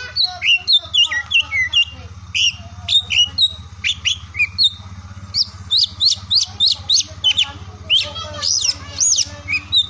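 Oriental magpie-robin (kacer) singing: a rapid, unbroken run of varied whistled notes, sweeps and chirps, over a steady low hum.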